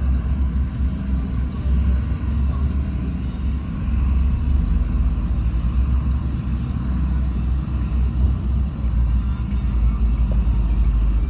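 Heavy diesel construction machinery running, a steady low rumble.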